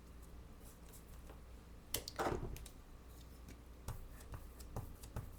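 Faint handling noises of craft work at a table: scattered light taps and clicks, with a brief scraping rustle about two seconds in, over a low steady hum.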